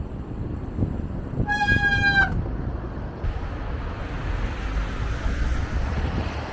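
Wind rumbling on the microphone over city traffic noise, with one short horn toot about one and a half seconds in that dips slightly in pitch as it ends.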